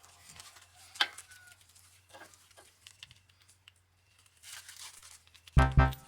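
Faint rustling and scattered clicks of things being handled, with one sharp click about a second in. Music with a heavy, pulsing beat comes in near the end.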